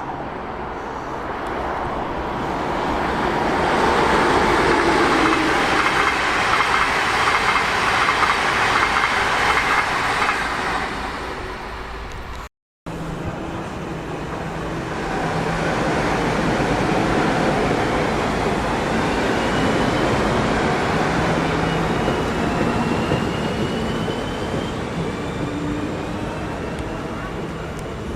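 Two trains passing one after the other: each time a rolling rumble of wheels on rails swells up and fades away. The sound drops out briefly about halfway, between the two. During the second passing a thin whine rises in pitch.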